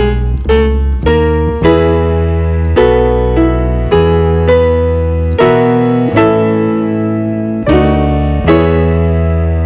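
Calm piano music: slow chords with a sustained bass, a new chord struck about every second.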